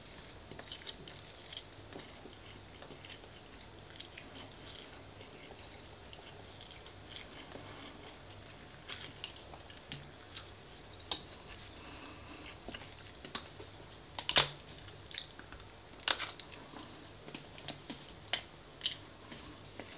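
Close-miked chewing and mouth smacks of someone eating spaghetti bolognese, with irregular short, sharp clicks throughout, the loudest about 14 seconds in. A faint steady hum sits underneath.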